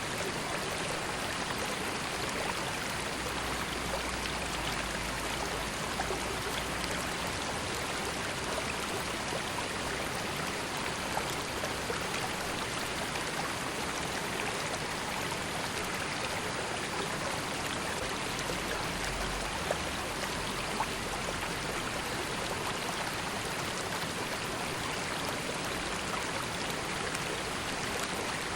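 A river flowing: a steady, even rush of water with small splashes and drips scattered through it.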